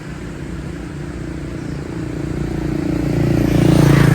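An engine running at a steady pitch, growing louder toward the end.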